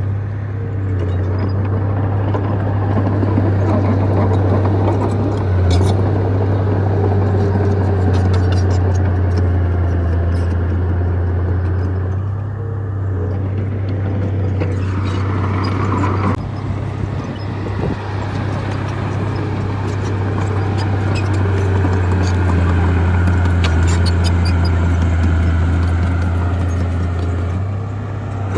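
Bulldozer diesel engine running under load with a steady deep drone and a scatter of small metallic clanks, with a brief higher whine about halfway through that cuts off suddenly.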